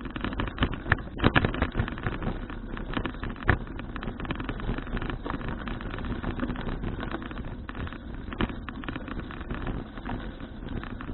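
Wind buffeting a bicycle-mounted action camera's microphone on the move, over a steady low road rumble, with sharp knocks and rattles, most of them in the first few seconds.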